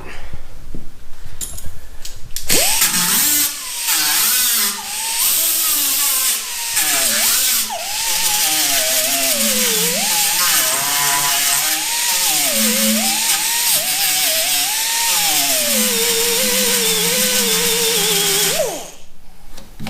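Electric grinder grinding metal on a car fender, its motor pitch sagging and recovering as it is pressed into the work. It starts a couple of seconds in and stops shortly before the end.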